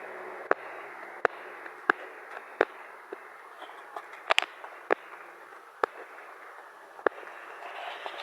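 Steady rain hiss with about ten sharp, irregular ticks on top, a pair close together near the middle.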